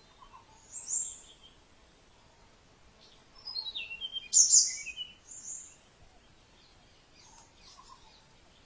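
Wild birds singing and calling: a short high call about a second in, then the loudest phrase in the middle, a run of notes stepping down in pitch mixed with sharp high chirps, and fainter calls near the end over a soft outdoor background hiss.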